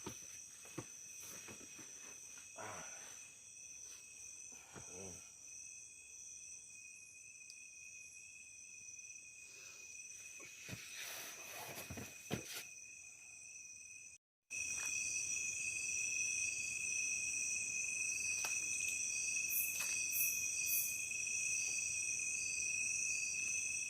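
Insect chorus in the forest, several steady high-pitched trills sounding together, with a few faint knocks in the first half. The chorus drops out for a moment about halfway through and comes back louder.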